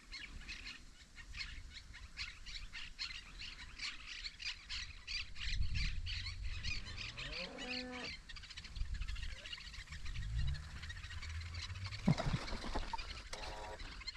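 Birds chirping rapidly and continuously in open countryside, with a short, lower animal call about halfway through and another brief call near the end.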